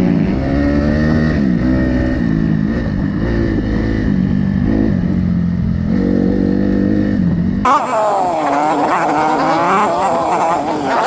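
Enduro motorcycle engine revving up and down while riding, its pitch rising and falling. About three-quarters of the way through, the sound changes abruptly to a higher, thinner engine note with little bass.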